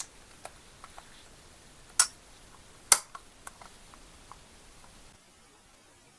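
A series of light clicks and taps from hard objects being handled, with two sharper knocks about two and three seconds in.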